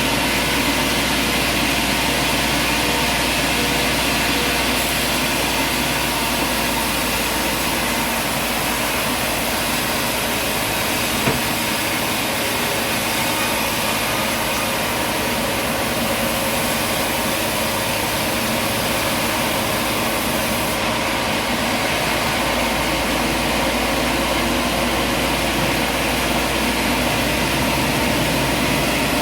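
Engine-driven machinery running steadily with an even drone, with no change in load.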